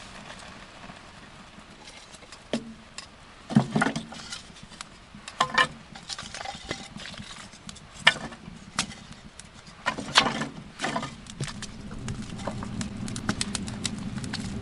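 Irregular knocks and clatters, with a run of quicker, lighter clicks near the end.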